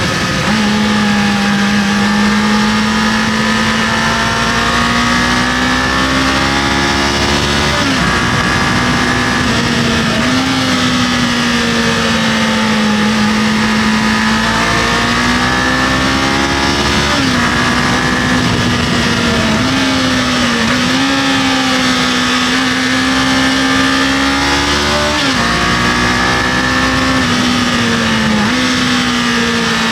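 Kawasaki KLE500's parallel-twin engine running steadily under way, heard from the rider's position, its note dipping and picking up again several times, over a constant rush of wind and road noise.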